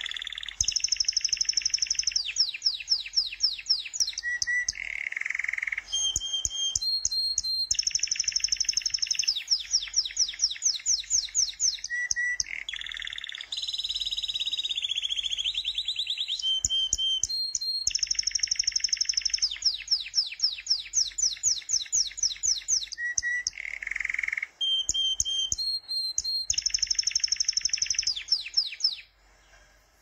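Songbird song: bright chirps, fast trills and short steady whistled notes in phrases a few seconds long, with abrupt breaks between phrases.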